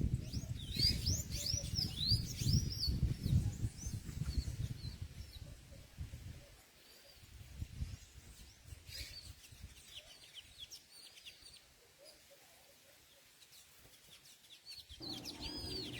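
Small songbirds chirping with quick, arching chirps, thickest in the first four seconds and again around nine seconds and near the end, over a low rumble that dies away after about six seconds.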